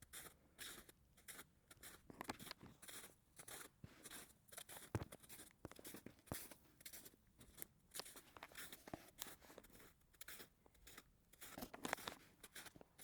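Faint footsteps crunching in snow, about two steps a second, stopping suddenly near the end.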